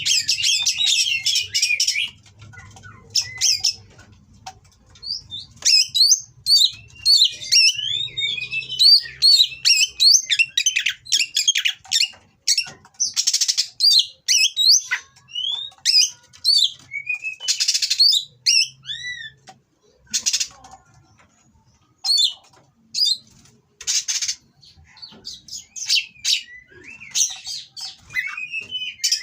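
Oriental magpie-robin singing in a long run of varied, rapid whistled phrases and slurs mixed with harsh, rasping chatter, broken by a few short pauses.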